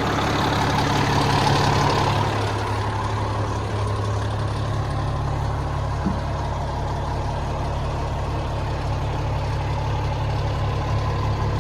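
Cummins L9 inline-six diesel engine of an International 4400 truck idling steadily, with an extra hiss over the first two seconds.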